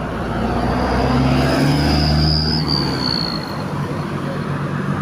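A motor vehicle engine drones past close by, swelling towards the middle and easing off, with a thin high whine over it that slides down a little before fading.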